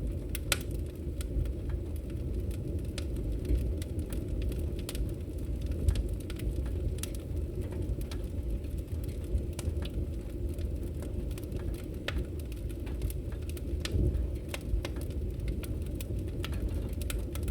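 Log fire burning in a fireplace: a steady low rumble of flames with frequent sharp crackles and pops from the wood, a few of them louder.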